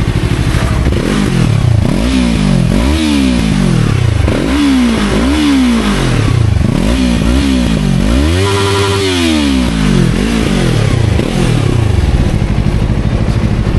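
Yamaha R3's parallel-twin engine revved repeatedly through its exhaust: about a dozen throttle blips, the pitch rising and falling each time, with one rev held longer past the middle.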